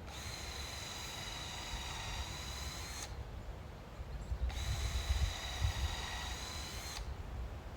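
Electric power drill running in two bursts, about three seconds and then about two and a half seconds long, its motor whine steady in pitch and cutting off sharply each time the trigger is released.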